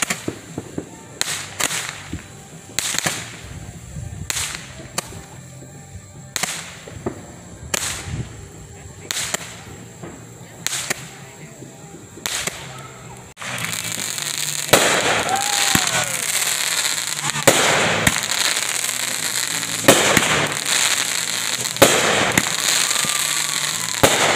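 Consumer aerial fireworks going off in a run of sharp bangs, roughly one a second. About halfway through, the sound turns abruptly to a louder, denser hiss with further bangs and a few brief whistling tones.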